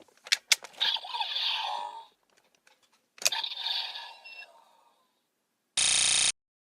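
Sharp plastic clicks, then two stretches of scraping and rattling, as of a plastic toy gadget being handled. A short, even half-second electronic tone sounds near the end.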